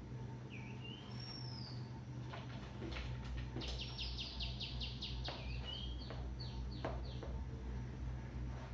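Small birds calling: a few short whistled notes, then about three and a half seconds in a quick run of downward-sliding chirps, around five a second, over a low steady hum.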